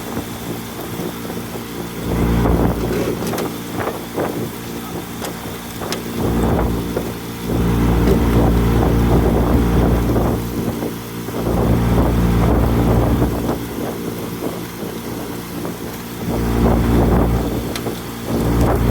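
Motorboat engine running steadily under way, with low gusts of wind buffeting the microphone every few seconds.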